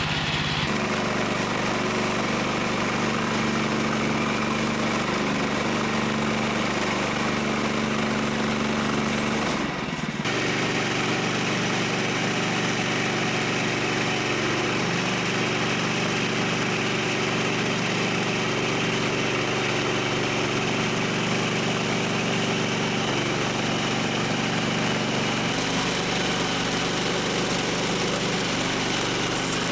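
Small gasoline engine of a portable bandsaw sawmill running steadily, a constant engine hum with a short break about ten seconds in and a change in tone near the end.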